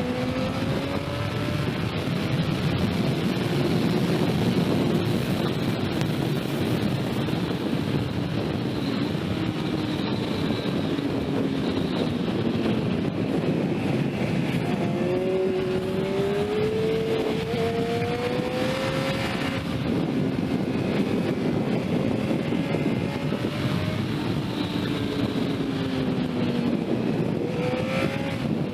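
Sport motorcycle engine revving up and down through the gears at speed, pitch climbing in long sweeps and dropping back, over a steady rush of wind noise.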